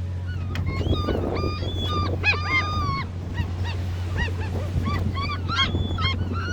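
A flock of gulls calling: many short, arched squawks overlapping in quick bursts, thickest about two seconds in and again near the end. Underneath runs the steady low hum of the boat's engine.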